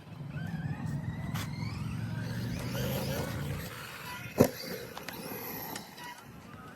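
Arrma Kraton 4S RC truck's brushless motor and drivetrain whining, rising in pitch as it speeds up. About four seconds in comes a single sharp knock, the loudest sound, and the running sound then drops away.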